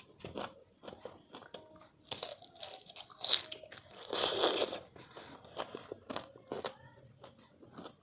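Close-up mouth sounds of someone eating crisp, sour raw mango: repeated short crunches and wet chewing clicks. There is a sharp louder crunch just past three seconds and a longer loud rush of noise about four seconds in.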